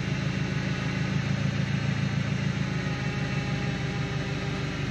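An engine idling steadily, at an even pace with no revving.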